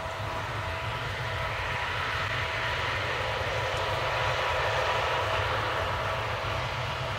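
Case combine harvester running steadily at work, a low engine drone under steady mechanical whines and a broad rushing noise from the threshing machinery, swelling a little toward the middle.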